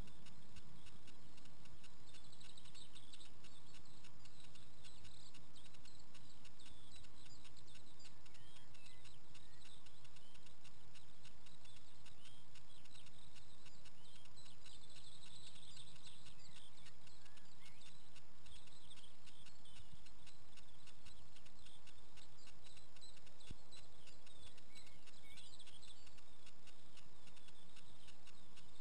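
Outdoor background hiss with bursts of faint, high, quick chirps from small birds, over a steady run of fine ticking clicks.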